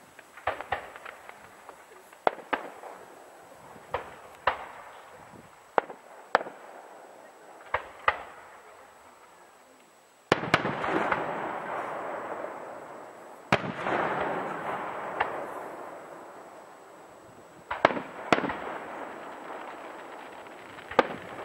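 Fireworks display: aerial shells bursting with sharp bangs, about ten in the first half. Two bigger bursts follow, each trailing off in a long fading rush lasting a few seconds, and a few more bangs come near the end.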